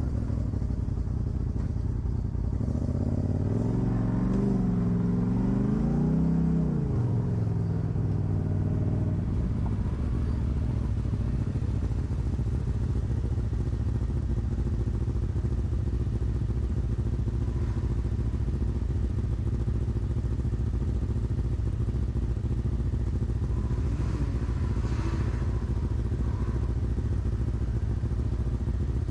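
Off-road vehicle engine running steadily, revved up and back down twice about four and six seconds in.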